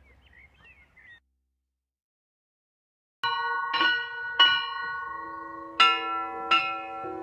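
Bells struck in turn, five strokes at uneven spacing starting about three seconds in, each ringing on and overlapping the next.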